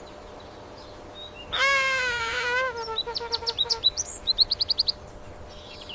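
Bird calls. About a second and a half in comes one long, loud, slightly falling call lasting about two seconds. Overlapping its end is a quick run of short, high chirps, several a second.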